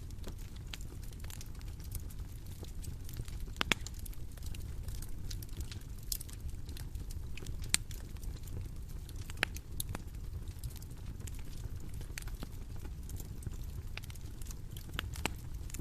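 Bonfire crackling: irregular sharp snaps and pops, a few of them louder, over a steady low rumble of burning.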